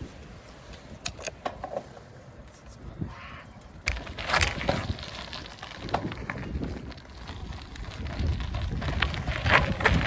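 Riding noise from a bicycle: low rumbling road and wind noise with scattered clicks and rattles. It grows louder about four seconds in and again near the end.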